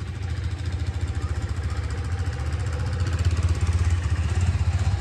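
KTM RC 390 motorcycle's single-cylinder engine running at low revs as the bike is ridden slowly, a steady pulsing note that grows a little louder about three seconds in.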